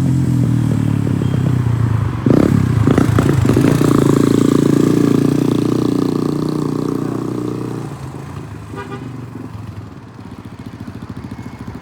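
A motor vehicle's engine passing close by on the street, suddenly louder about two seconds in, then fading away about eight seconds in.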